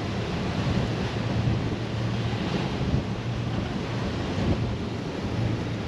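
Strong gale-force wind blowing across the microphone, with a steady low hum underneath from a diesel heater running.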